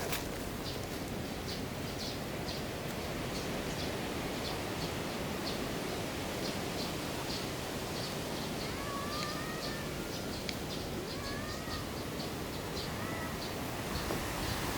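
Outdoor ambience: a steady rushing hiss, with many short high chirps throughout and three brief rising-and-falling calls in the second half.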